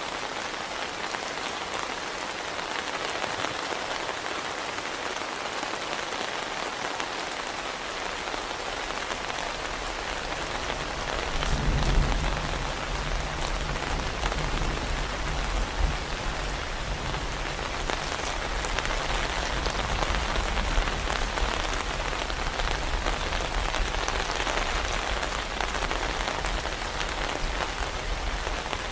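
Heavy rain falling steadily. About eleven seconds in, a deep low rumble swells up under the rain and keeps going more quietly.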